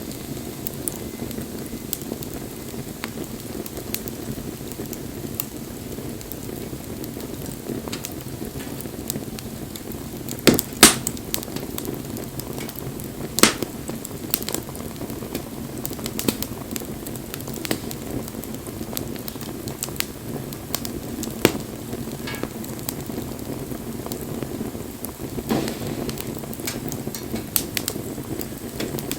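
Wood bonfire burning: a steady low rush of flames with frequent crackles and several loud sharp pops, the loudest a pair about ten and a half seconds in and another near thirteen seconds.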